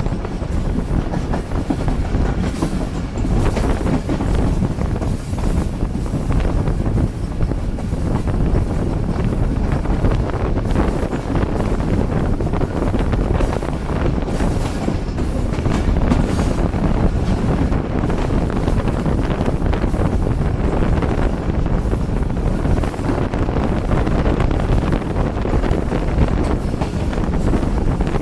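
Tezgam passenger train rolling past, a steady loud rumble of coach wheels on the rails with faint rhythmic clicks at the rail joints.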